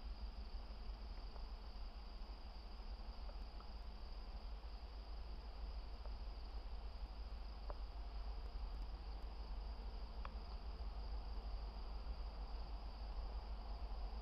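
Steady, unbroken high-pitched chorus of insects, with a steady low rumble underneath.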